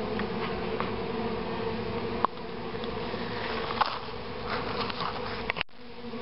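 Swarm of honey bees buzzing in a steady hum, with a few faint ticks; the sound drops out briefly near the end.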